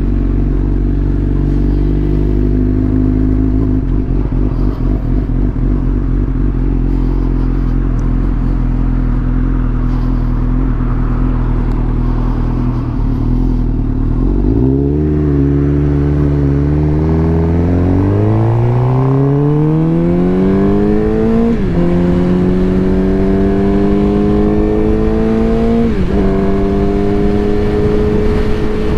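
Suzuki GSX-R750 inline-four running through a new M4 full exhaust. It idles steadily for about half the time, then pulls away and accelerates with a rising note, dropping twice as it shifts up a gear and rising again after each shift.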